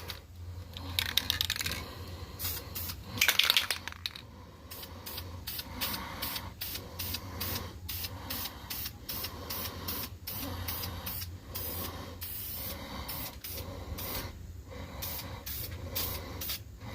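Aerosol spray-paint can touching up a motorbike exhaust pipe in many short hissing spurts, about one or two a second. Two louder rattling stretches come in the first few seconds.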